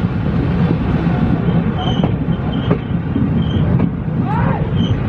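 Passenger train running on the track, heard from inside the coach: a steady rumble of wheels and carriage, with a few sharp clicks about two seconds in.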